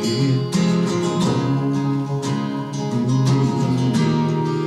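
Live music: acoustic guitar strumming in a country song.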